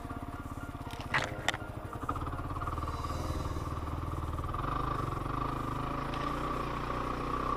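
Yamaha WR250R's single-cylinder four-stroke engine running at a low, even beat, with two sharp clicks about a second in. The revs then rise and the bike pulls away at a steady, higher engine note.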